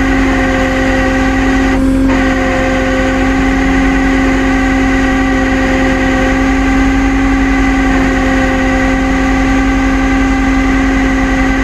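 Tow truck running steadily while winching, with a constant high whine over the engine's low rumble.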